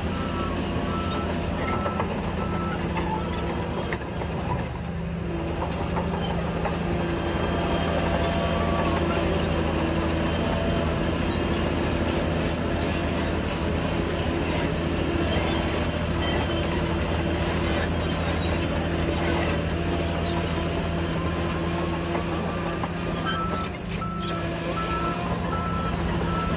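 Diesel engine of heavy earthmoving equipment running steadily under work. A reversing alarm beeps repeatedly at the start and again near the end.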